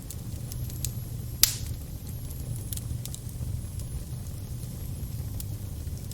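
Crackling fire: a steady low rumble of flames with scattered sharp crackles, and one loud pop about a second and a half in.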